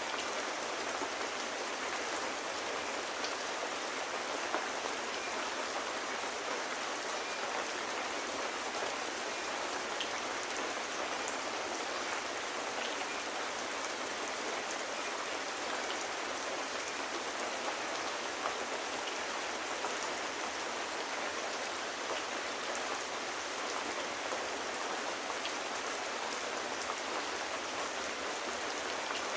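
Steady rain falling, an even hiss of many drops with faint scattered ticks and no change in level.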